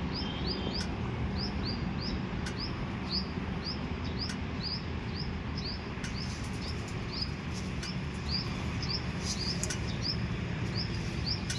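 A bird repeating a short, high, rising chirp about twice a second, steadily, over a constant low background rumble.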